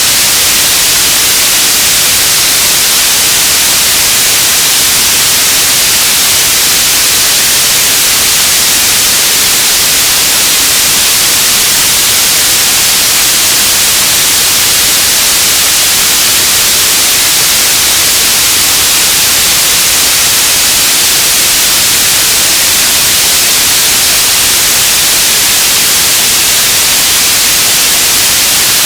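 Loud, steady radio static: an even hiss, strongest in the highs, with no tones, clicks or voices breaking through.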